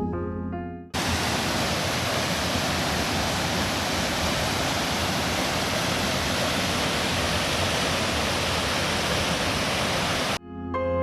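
Steady rushing noise of running water, as of a mountain stream or small waterfall. It starts abruptly about a second in and cuts off abruptly near the end. Soft piano music fades out just before it.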